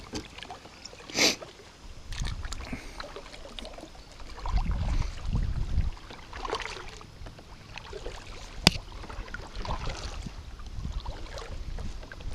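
Kayak paddling: irregular splashes and swishes of the paddle in the water. A low rumble about five seconds in and a sharp knock near the end of the strokes.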